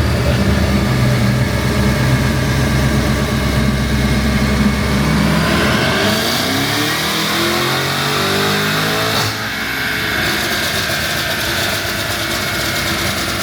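Supercharged 6.2-litre V8 of a 2024 Cadillac CT5-V Blackwing, breathing through Kooks long-tube headers and an X-pipe, running on a chassis dyno. It runs steadily for about five seconds, then revs up in one pull with the pitch rising for about four seconds, and the throttle snaps shut about nine seconds in, the engine dropping back to a lower, steadier note.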